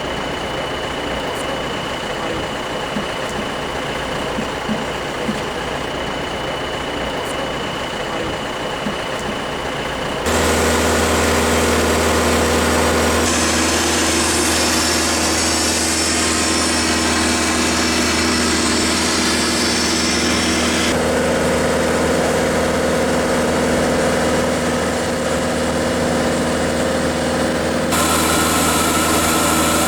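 Engines running steadily, a loud drone with several held tones and a hiss on top, changing abruptly about 13, 21 and 28 seconds in. For the first ten seconds there is only a quieter even noise with a faint steady high tone, before the engine drone sets in suddenly.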